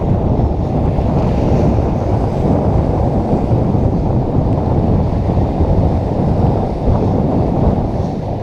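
Strong wind buffeting the microphone: a loud, steady, low rumble of wind noise with no let-up.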